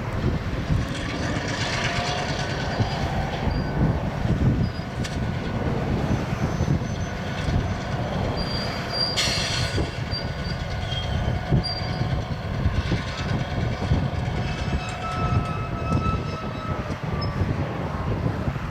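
Ballast train being shoved by a locomotive, the cars rumbling steadily while steel wheels squeal in thin, wavering high tones that come and go. A short hiss cuts in about halfway through.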